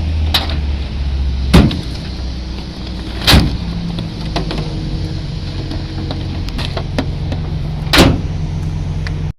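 A car's engine running as a steady low hum, with sharp thumps of car doors shutting: a light click about half a second in, then three loud thumps, two close together early and one near the end.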